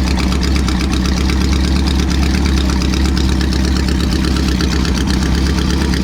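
Motorcycle engine idling steadily, with a rapid, even pulsing exhaust beat.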